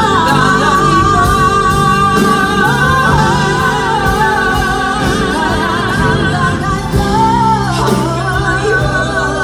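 A singer holding long notes with strong vibrato in a Tagalog love ballad, over a backing accompaniment; about eight seconds in the voice slides down and picks up the line again.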